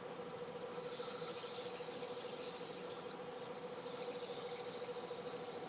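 A cloth pressed against an Iroko platter spinning on a wood lathe, burnishing in the oil: a steady high hiss that swells twice, over a steady motor hum.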